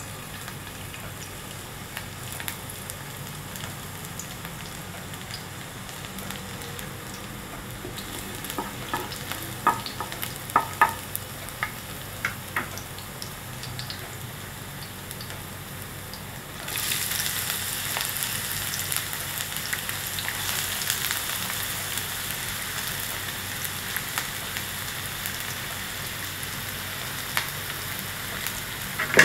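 Chopped garlic frying in oil in a pan, a steady sizzle with a run of sharp clicks and pops about a third of the way in. A little past halfway the sizzle suddenly grows louder and brighter, and there is one sharp knock at the very end.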